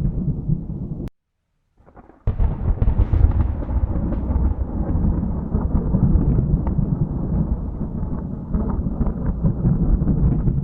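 Thunder rumbling in long, heavy rolls with a few sharp crackles. About a second in it cuts off abruptly into a second of silence, then starts again suddenly and rumbles on.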